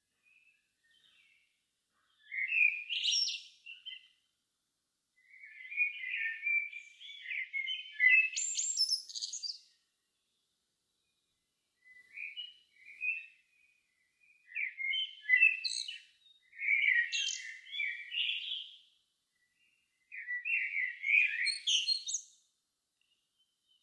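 Songbird singing at dusk in about five separate warbled phrases of one to four seconds each, several ending in high twittering notes, with pauses between them.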